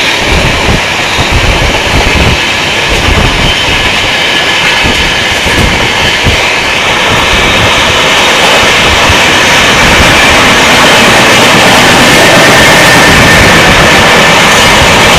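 Two trains running side by side at speed, heard from the open doorway of one: a loud, steady rush of wheel and rail noise, with low buffeting in the first few seconds, growing louder about halfway through.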